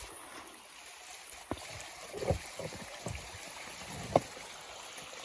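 Steady rush of stream water at a waterfall, with a few scattered dull knocks and bumps.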